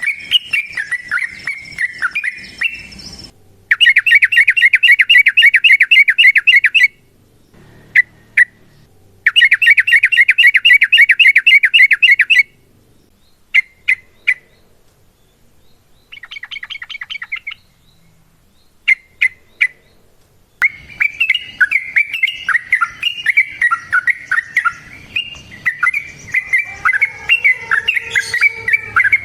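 Yellow-vented bulbul (trucukan) singing: a chattering, warbling song, broken by two long, loud, fast rolling trills of rapidly repeated notes (the "ropel"), a few short separate notes and a quieter short trill, then steady chattering song again from about two-thirds of the way through.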